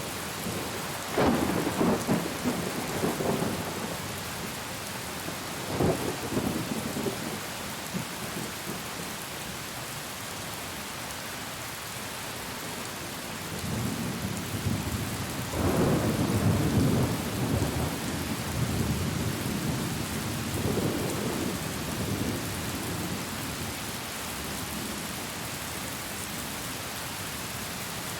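Steady heavy rain with rolling thunder. One rumble comes about a second in, a shorter one around six seconds, and a long rolling peal from about fourteen to twenty-two seconds.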